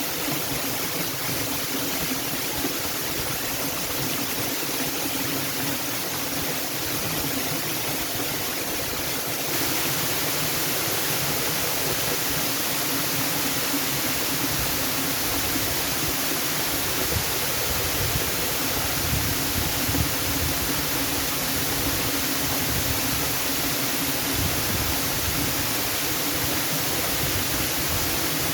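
Waterfall: a steady, even rush of falling water, which turns a little louder and brighter about a third of the way in.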